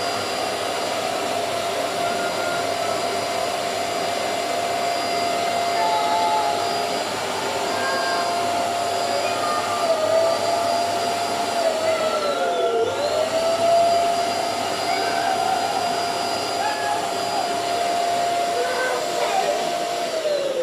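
Small electric air blower running with a steady whine while it fills a bunch of balloons at once. Its pitch dips briefly twice under load, and it winds down as it is switched off at the end.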